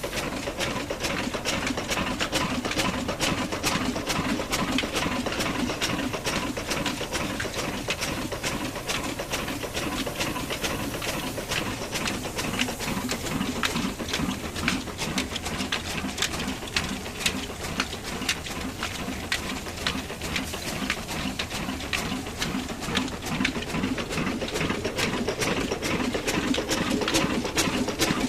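An engine-driven mini flour mill running steadily with a dense, rapid mechanical clatter.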